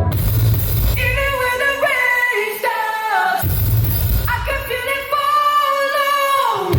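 Live pop-rock band music with a wordless sung vocal line over it. The bass drops out twice, and the voice slides down in pitch just before the low end comes back in.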